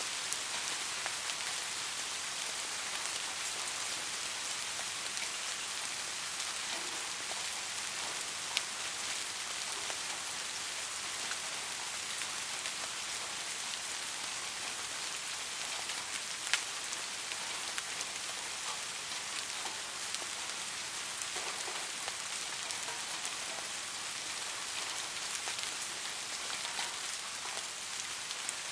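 Steady rain falling on a surface, a dense high patter with individual drops ticking sharply now and then, two louder ones about 8 and 16 seconds in.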